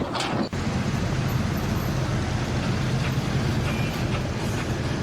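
A heavy engine running steadily with a low rumble, starting abruptly about half a second in.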